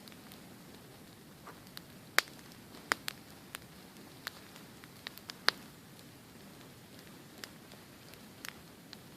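Wood campfire crackling: sharp, irregular pops over a steady soft hiss, the loudest snaps about two seconds in and again past the middle.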